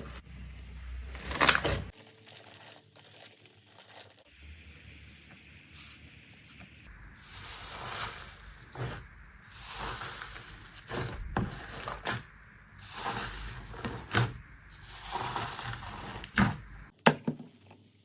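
Hands squeezing, pressing and stretching slime in a run of short clips: noisy sticky handling sounds that swell and fade every couple of seconds, with a loud sharp click about a second and a half in.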